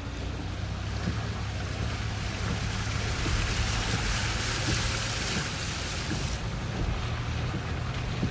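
Car driving, a steady low road and engine rumble heard inside the cabin, with a hiss that swells for a few seconds in the middle.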